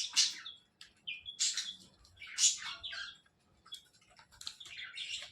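Parakeets chirping, a series of short, high, scratchy calls spread through a few seconds.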